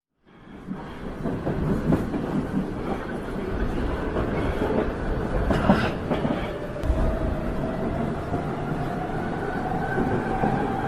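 Subway train running, a steady rumble and rattle of the cars, with a sharp knock about halfway through and a rising whine in the second half.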